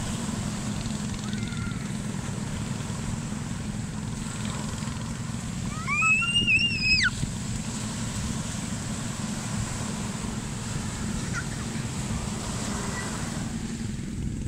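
Ocean surf and wind rushing steadily, with one high-pitched squeal from a child lasting about a second midway.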